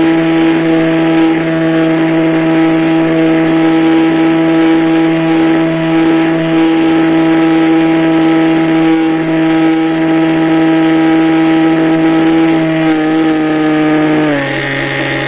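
Radio-controlled model airplane motor running at a steady high throttle, a loud even drone that drops in pitch about a second before the end as the throttle is cut.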